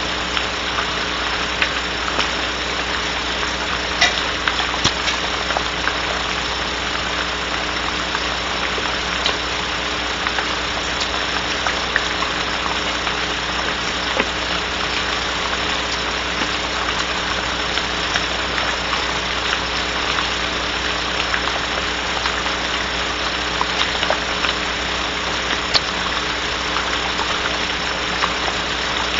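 Steady hiss of rain falling on a barn owl nest box, over a constant low hum, with scattered faint ticks.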